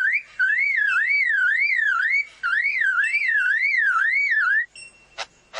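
Male lyrebird mimicking a car alarm: a warbling whoop sweeping up and down about three times a second, in two long phrases with a short break, stopping shortly before the end. Two sharp clicks follow near the end.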